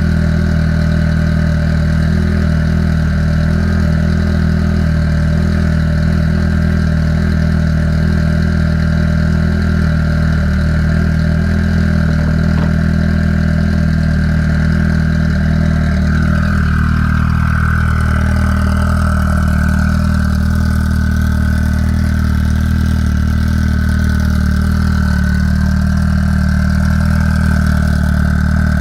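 Car engine idling steadily while its cooling system is burped of air after a radiator replacement.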